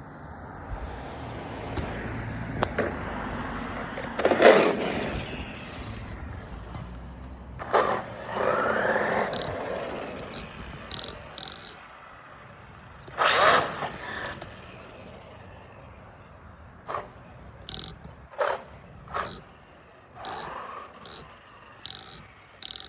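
Large 12S brushless electric RC monster truck with a belt drive running over rough ground: several loud surges of motor and tyre noise, one with a rising whine as the motor spools up. Near the end come a string of short, sharp bursts.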